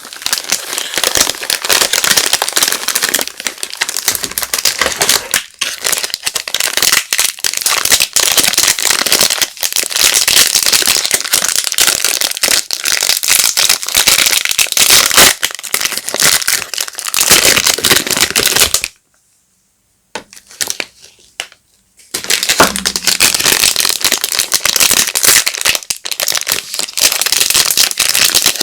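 Soap wrappers crinkling and rustling as bars of soap are unwrapped by hand: dense, crackly and close. It drops away for about three seconds about two-thirds of the way in, leaving only a few faint rustles, then picks up again.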